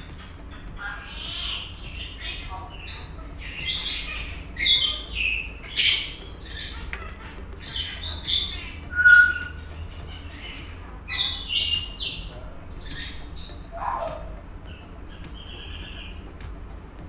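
A bird chirping and squawking in many short, high calls, with a brief clear whistle about nine seconds in and a falling call near fourteen seconds.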